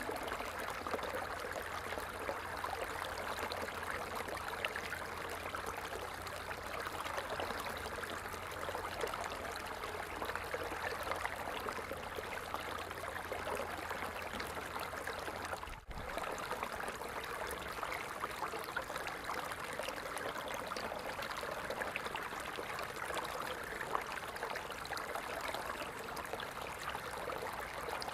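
Falling water splashing in a steady, even rush, with a momentary break just before the halfway point where the sound briefly drops out.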